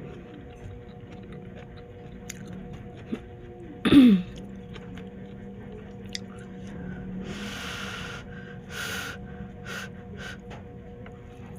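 Close-up eating sounds of a person eating pancit noodles: small wet chewing clicks throughout. About four seconds in comes one loud, short slurp-like mouth sound that falls in pitch, and a couple of breathy noisy slurps follow near the second half.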